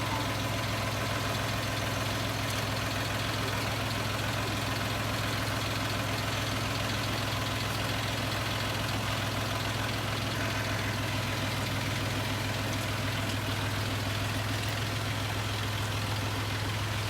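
An engine idling steadily with a low, even drone that does not change.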